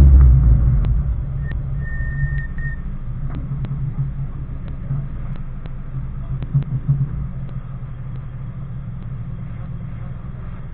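Mazda 3 race car's engine heard from inside the cabin: louder for the first second as the car creeps up to the start line, then idling steadily with a low hum. Light ticks are scattered through it, and a brief high tone sounds about two seconds in.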